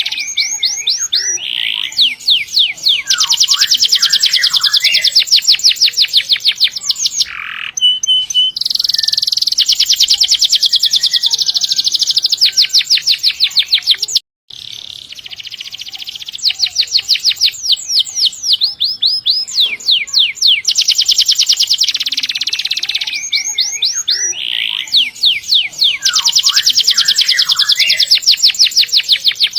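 Domestic canary singing long rolling trills, each a fast run of rapidly repeated high notes, strung phrase after phrase. The sound drops out briefly about halfway through.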